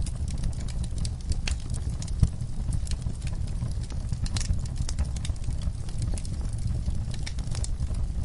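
Wood logs burning in a fireplace: a steady low rumble of flames with frequent sharp crackles and pops, one louder pop about two seconds in.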